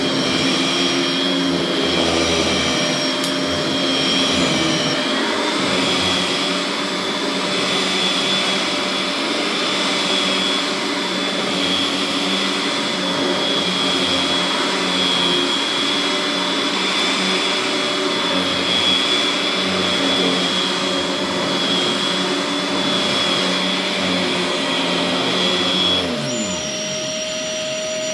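Simplicity Synchrony Premium tandem upright vacuum running with a steady motor whine. Near the end one running part spins down, falling in pitch, while the vacuum keeps running with a changed whine.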